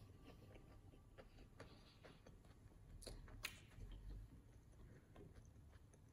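Near silence: faint room tone with a few soft clicks from quiet, closed-mouth chewing of a sandwich.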